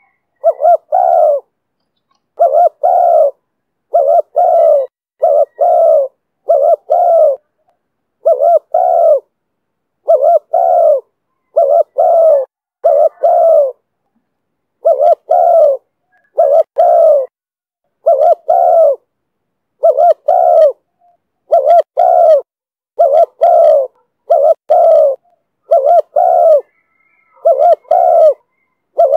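Spotted dove cooing in the 'thổ thúc bổi' call style: phrases of two or three short, deep coos, repeated with short pauses about every one to two seconds.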